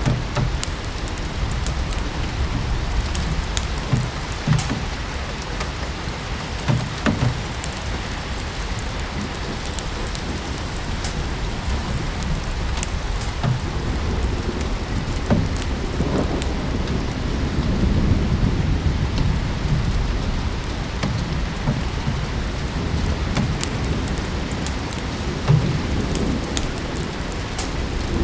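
Steady rain mixed with a crackling wood fire, with scattered small clicks and pops. There is one sharper pop near the end, and a few low rumbling swells.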